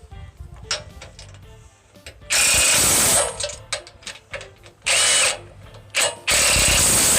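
Cordless power driver running in four short bursts, the first and last close to a second long, with a steady whine under the motor noise.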